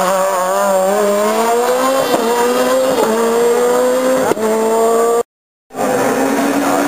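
Rally car engine accelerating hard, its pitch climbing with short dips at gear changes about two, three and four seconds in. The sound drops out for half a second a little after five seconds, then an engine is heard running again.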